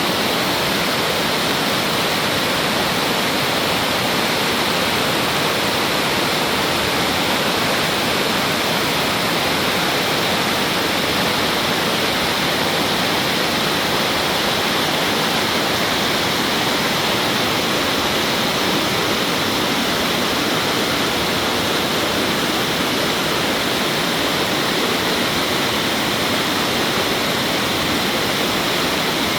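Mountain stream rushing steadily over rocks, a continuous even splashing of fast-running water.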